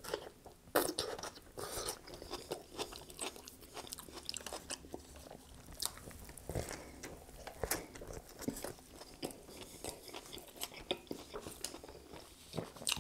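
A person biting into and chewing a Dairy Queen burger, with irregular mouth clicks and chewing noises and a stronger bite about a second in and another about six seconds in.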